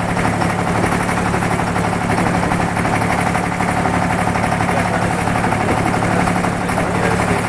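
Boat engine running with a steady, unchanging drone.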